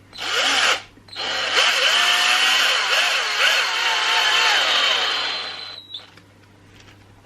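Electric drill/driver running in a short burst, then for about five seconds with its motor pitch wavering up and down under load before cutting off.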